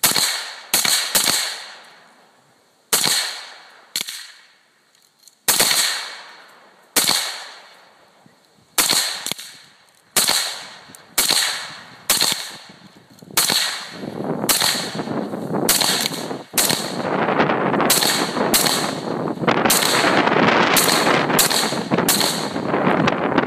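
Semi-automatic rifle fire from an AR-15 and an SKS shooting together. Single shots come about a second apart at first, then faster and overlapping in the second half, with a steady rushing noise under the later shots.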